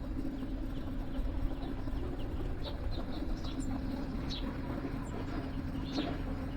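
Small songbirds chirping in short scattered calls, over a steady low hum.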